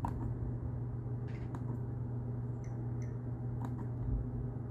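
HVAC air handler's indoor blower motor running with a steady hum, now running normally after its overheated motor was cooled down, with a few faint light clicks.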